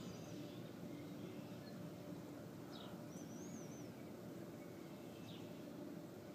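Faint birdsong outdoors: a few short, high chirps and a wavering whistle about three seconds in, over a steady low background rumble.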